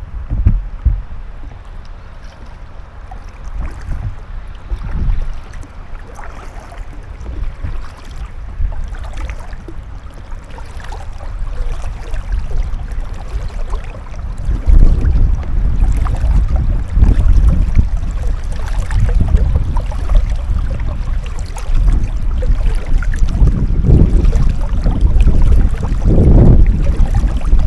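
Strong wind buffeting the microphone in gusty low rumbles, growing louder about halfway through.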